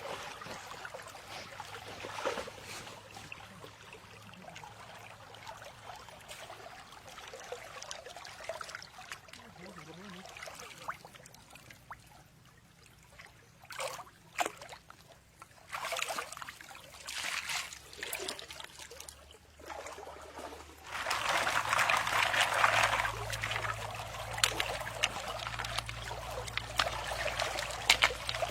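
Water trickling and splashing in uneven spurts, turning into a louder, steadier flow about three-quarters of the way through.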